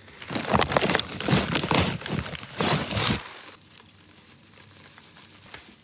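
Crinkling and rustling of a pet-food bag as the food bowls are restocked, busy for about three seconds, then quieter for the rest.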